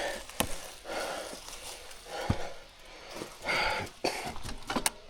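A person breathing hard and out of breath from exertion, a loud exhale about once a second, with a few sharp clicks and snaps in between.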